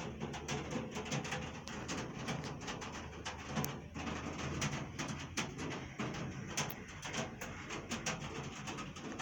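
Heavy rain, with many sharp drops tapping and dripping close to the microphone over a steady hiss, and a low steady hum underneath.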